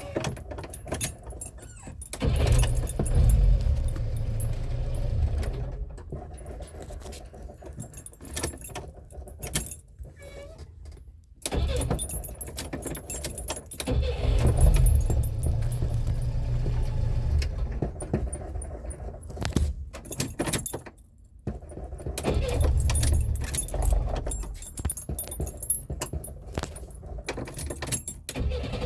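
A Renault 4 with a flooded engine being cranked over on its starter in three long attempts, beginning about 2, 12 and 22 seconds in, with shorter clicks and rattles in the gaps between them.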